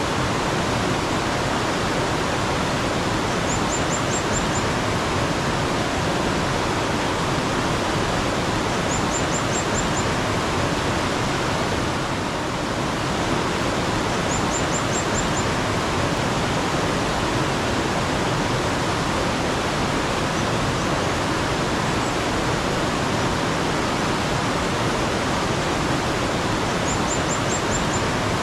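Mountain stream water rushing steadily, with a small bird giving a quick run of five or six very high chirps four times, a few seconds apart.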